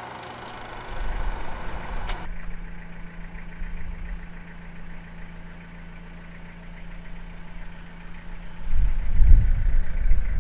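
A car engine idling, a steady low hum. Near the end, low gusty rumbling of wind on the microphone comes in.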